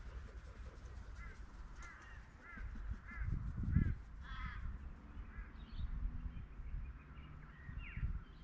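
A bird calling: a run of short, evenly spaced arched notes, about three a second, then a harsher call, with fainter calls later. Low rumbling noise runs underneath and swells around the middle.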